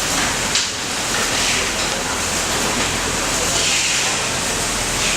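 Automatic pattern sewing machine running as it stitches a shirt collar: a steady, dense mechanical noise with a few sharp clicks.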